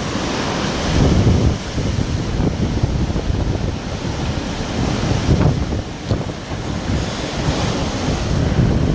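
Storm wind from Hurricane Ida gusting and buffeting the microphone, over a steady rushing hiss, with rumbling surges about a second in, midway and near the end.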